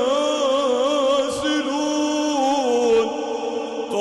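A male reciter chanting the Quran in melodic tajweed style, drawing out long wavering, ornamented notes before closing the verse on the word 'yansilun' near the end.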